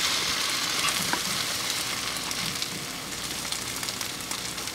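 French toast frying in a pan: egg-soaked bread sizzling steadily with scattered small crackles, the sizzle slowly easing off.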